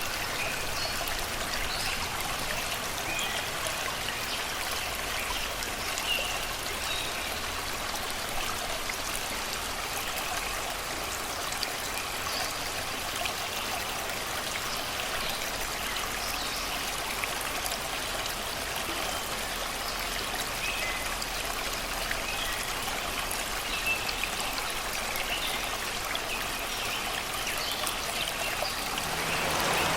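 Shallow river water flowing and babbling steadily over rocks and stones, with scattered short bird chirps from the forest.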